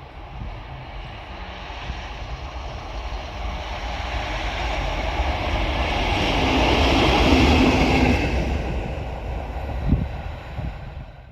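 A train approaching and passing, its rumble and rail noise swelling to a peak about seven seconds in and then fading, with a single sharp knock near the end.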